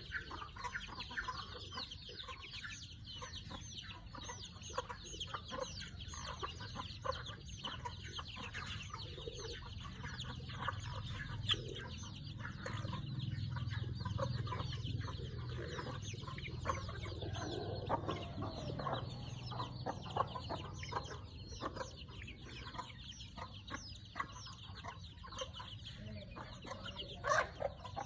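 Chickens clucking steadily, with many short high calls in quick succession; a low hum swells and fades in the middle.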